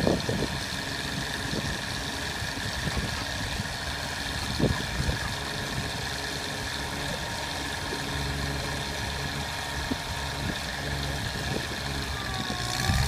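Bucket truck engine idling steadily, with a few light knocks. A wavering whine comes in near the end.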